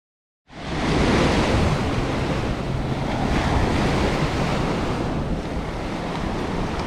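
Ocean surf washing on a beach, with wind buffeting the microphone; it cuts in suddenly about half a second in and then runs as a steady rush.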